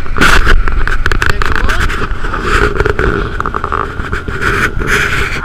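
Simplicity Legacy XL garden tractor engine running steadily, with irregular knocks and scrapes from the loader at work in the snow.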